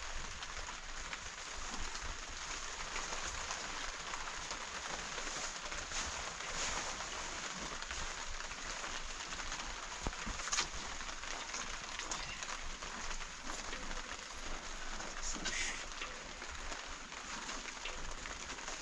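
Steady rain falling, an even hiss with a few sharp ticks of drops striking something close by.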